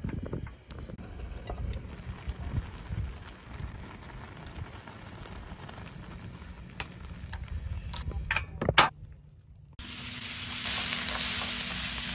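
A low rumble with scattered light clicks and a sharp knock about nine seconds in; then, about ten seconds in, onion and cauliflower start sizzling loudly in a frying pan, a steady even hiss.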